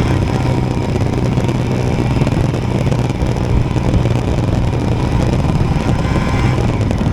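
Royal Enfield Himalayan single-cylinder motorcycle engine running at a steady pitch under way, mixed with road and wind rush.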